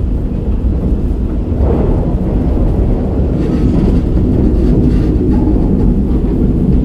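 KiHa 47 diesel railcar running along the line, heard from inside the carriage: a steady, loud, low rumble of engine and wheels on rail, muffled as if from a pocket.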